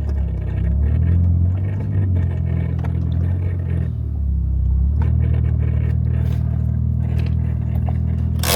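1JZ straight-six engine in a MK3 Supra running at low speed, heard from inside the cabin; its note wavers for the first few seconds, then holds steady. A sharp click comes near the end.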